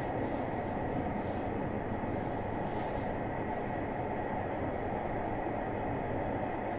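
Running noise inside a motor car of a JR Hokkaido 733 series electric multiple unit: a steady rumble of wheels on rail and the train's drive, even in level throughout.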